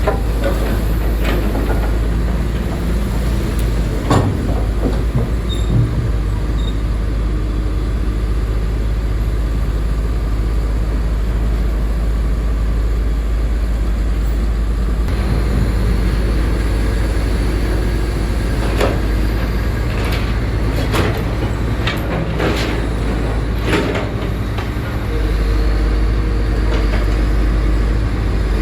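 Diesel engine of heavy construction machinery running with a steady low rumble, with several sharp metallic knocks and clanks, mostly in the second half.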